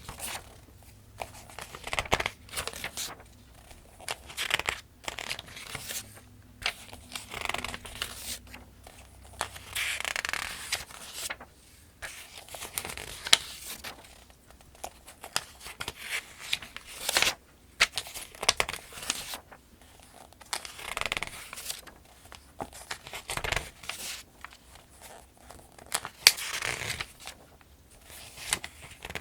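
Pages of a paperback almanac being turned one after another at a steady pace: each turn is a soft paper rustle ending in a crisp flick or snap. A page goes over every second or two.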